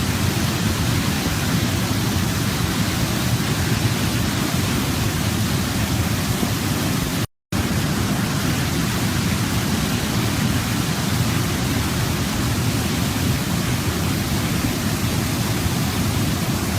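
Waterfall: water pouring and cascading in a steady, even rush with a deep low end. The sound cuts out for a split second about seven seconds in, then resumes unchanged.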